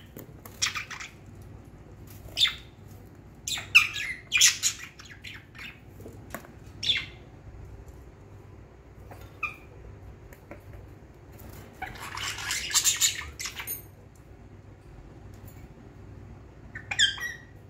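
Pet budgerigars chirping and squawking in short, scattered calls, with a denser run of chatter about twelve seconds in.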